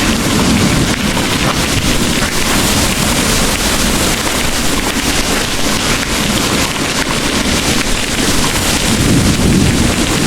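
Heavy rain pouring steadily, with a low rumble of distant thunder underneath that swells again near the end.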